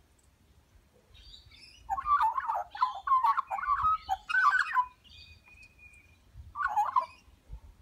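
Birds calling: a bout of loud chattering, warbling calls begins about two seconds in and lasts some three seconds, followed by a short thin whistle and another brief burst of chattering near the end, over a low rumble.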